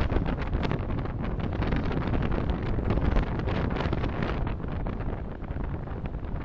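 A car's road and engine noise, picked up by a dashcam's microphone while driving: a steady low rumble with a wind-like hiss.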